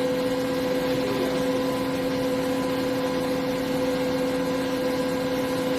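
HNK HB-130 CNC horizontal boring mill running: a steady machine hum with a constant whine, unchanging in pitch and level.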